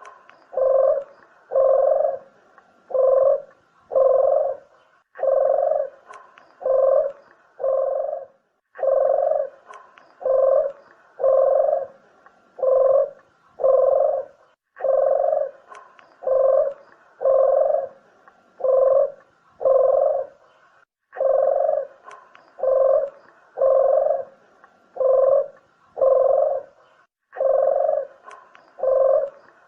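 Puter dove (ringneck dove) cooing: low, evenly repeated coos, about one and a half a second, in runs broken by a short pause about every six seconds. It is a lure call of the kind played to attract wild doves.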